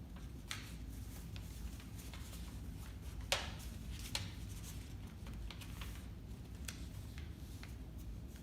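Sheets of paper being folded and creased by hand into a paper airplane, giving scattered short crackles and rustles, the sharpest about three seconds in, over a steady low hum.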